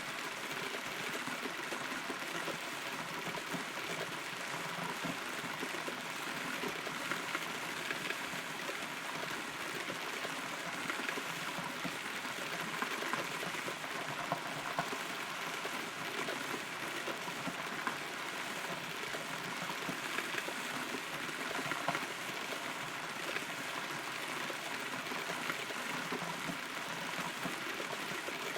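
Rain falling on a hollow rotten tree, heard from inside the trunk: a steady patter with many small drops striking and dripping on the wood.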